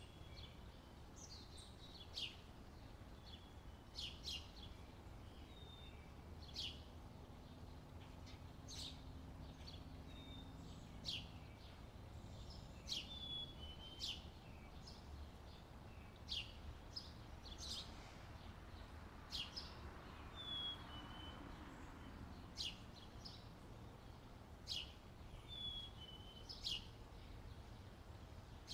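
Birds chirping: short, sharp, falling chirps about once a second, with a few brief whistled notes, over a faint low rumble.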